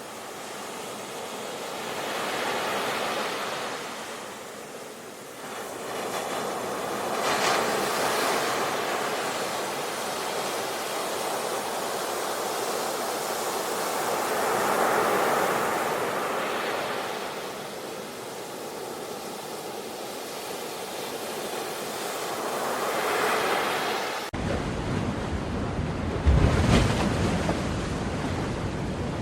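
Sea waves washing onto a shore, swelling and ebbing every few seconds. About 24 seconds in the recording changes abruptly to surf with a deep rumble and wind on the microphone.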